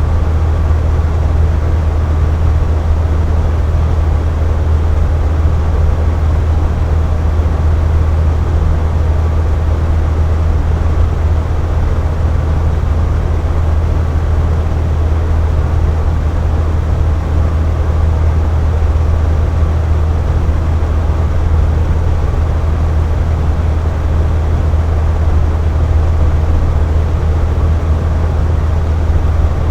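Box fan running steadily: a constant low hum with an even airy rush of moving air.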